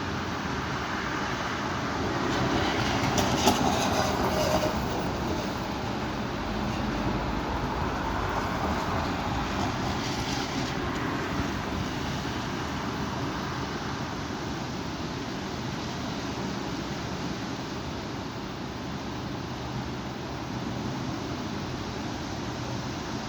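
Strong wind blowing steadily as a rushing noise, with a louder gust swelling a few seconds in.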